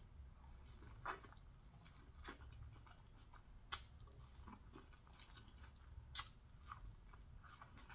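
Faint chewing and biting of seasoned corn on the cob, with scattered soft mouth clicks over a low steady hum.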